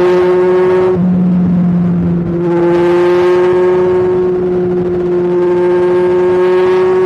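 Kawasaki Ninja 1000's inline-four engine and exhaust running under steady throttle. The note dips about a second in, comes back about two and a half seconds in, and then climbs slowly and steadily in pitch.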